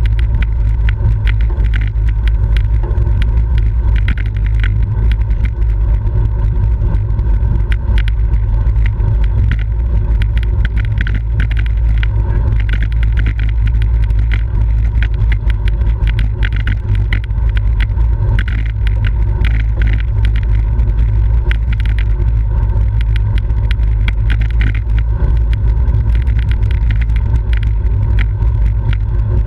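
Steady, heavy wind rumble on the microphone of a camera riding on a racing bicycle at speed, with many small clicks and rattles from the bike and the camera mount over road vibration.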